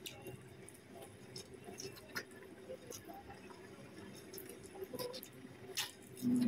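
Faint chewing with scattered soft mouth clicks and smacks as someone eats rice and meat, over a low steady hum.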